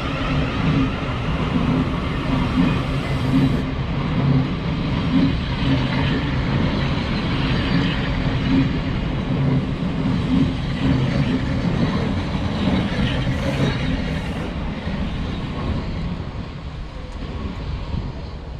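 Thameslink Class 700 electric multiple unit moving through the station: a steady low rumble with a regular pulsing beat, easing off over the last few seconds.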